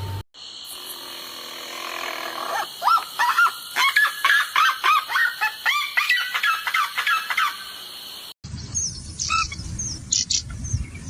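A bird calling in a fast run of repeated, arched calls, about two or three a second. After a sudden break, shorter and higher-pitched bird chirps follow.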